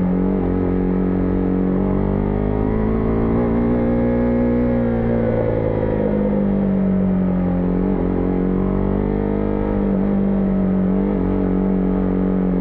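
Husqvarna Vitpilen 401's single-cylinder engine running steadily under way, its note rising and falling gently with the throttle.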